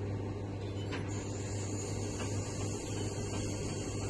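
Steady low electrical hum with a faint rushing background noise in a tower crane's cab, and one faint click about a second in.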